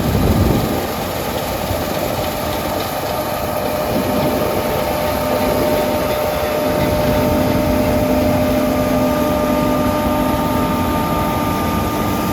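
Combine harvester running while cutting barley: a steady engine and machinery drone with constant whining tones. A lower tone joins about six and a half seconds in.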